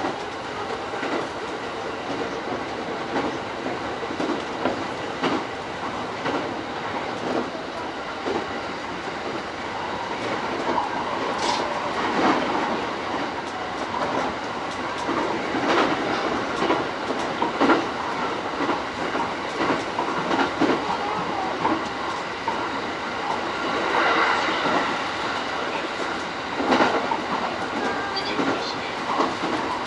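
JR East E231-series commuter train running along the line, heard from inside the leading car. The running noise is steady, with irregular clicks of the wheels over the track.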